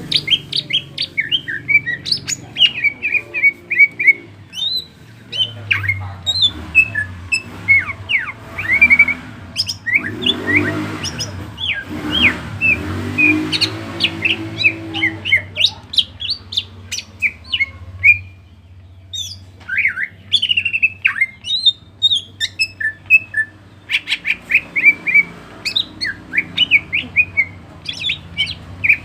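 A cucak ijo (green leafbird) singing hard in rapid runs of short, sharp chirps and whistled notes, with a couple of brief pauses. The bird is in moult and still singing at full strength.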